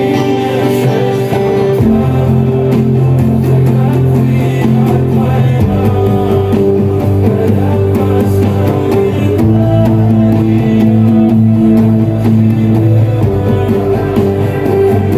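Acoustic guitar strumming chords of the song's closing section, the chord changing about every four seconds.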